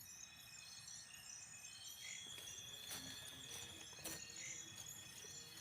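Faint forest insects chirping in repeated pulses, with a long thin whine in the middle and a couple of sharp clicks about three and four seconds in.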